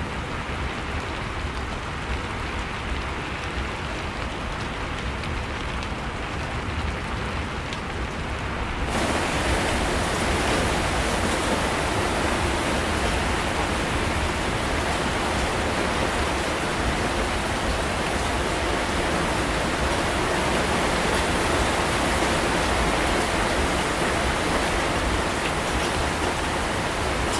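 Steady rainfall hiss. About nine seconds in it changes abruptly to a louder, brighter, even rush of heavy rain.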